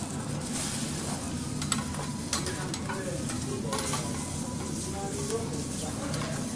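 Food sizzling on a teppanyaki griddle, with scattered sharp clicks and scrapes throughout.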